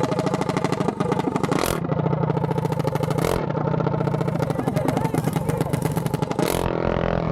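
Small mini bike engines running and revving close by, with a rapid, even firing beat throughout. Three short bursts of noise break in, about two, three and six and a half seconds in.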